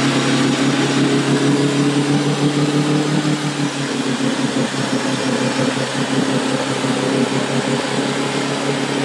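Off-road 4x4's engine running steadily at low revs as it crawls through deep mud and water, easing off briefly partway through.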